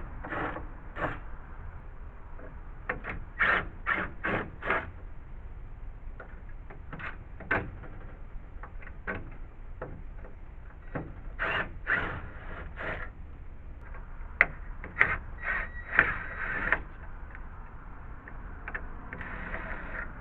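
Cordless drill backing screws out of deck wood in short bursts, in several quick runs.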